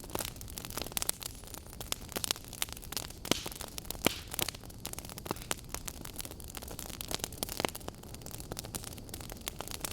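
Burning wood logs crackling: steady irregular snaps and pops over a soft hiss of flame, with one sharper pop about four seconds in.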